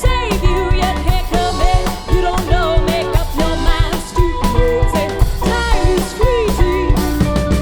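A rock band playing live: drums and bass keep a steady beat under a melody line with vibrato.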